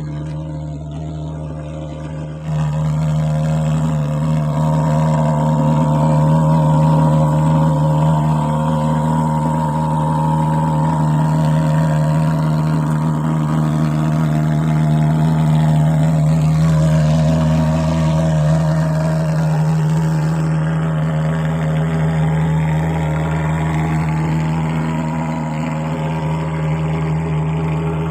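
Mosquito fogging machine engine running steadily, its note stepping up louder about two and a half seconds in and then holding.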